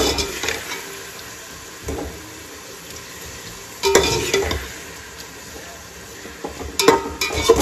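Sliced tomatoes and spices sizzling in oil in a steel pot while a spoon stirs them, scraping against the pot a few times, loudest about four seconds in and near the end.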